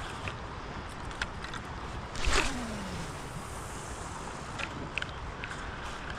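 Steady water and wind noise around a kayak, with scattered small clicks and knocks and one brief louder sound about two seconds in that trails off in a short falling tone.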